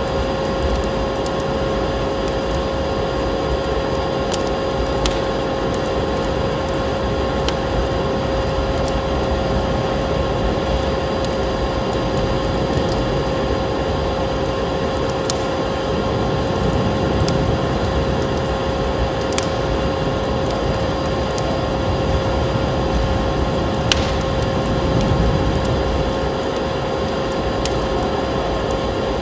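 Wood fire crackling in a fireplace: scattered sharp pops and snaps over a steady rushing noise, with a steady low hum underneath.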